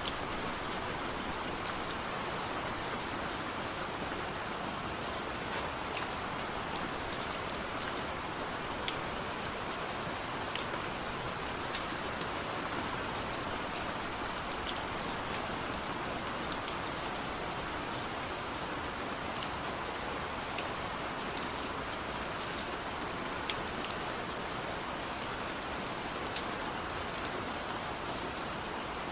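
Steady light rain falling on a surface, an even hiss with scattered sharp drop ticks.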